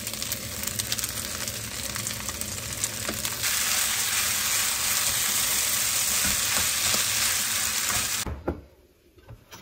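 Rice with pork and onion sizzling in a hot frying pan while a wooden spatula stirs and scrapes through it. The sizzle grows louder and steadier about three and a half seconds in, then cuts off sharply near the end, leaving a few light clicks.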